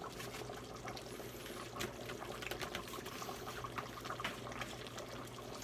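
Chili base of tomato sauce and beef broth boiling in a cast iron Dutch oven: faint, steady bubbling with many small pops, over a low steady hum.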